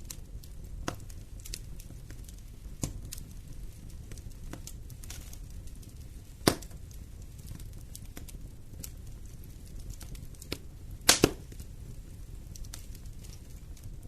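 Wood fire burning in a fireplace: a low steady rumble of the flames with scattered crackles and sharp pops from the burning logs, a loud snap about halfway through and a quick cluster of pops near the end.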